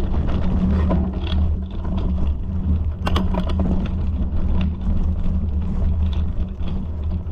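A steady low rumble with scattered rattles and knocks, and a cluster of sharp knocks about three seconds in.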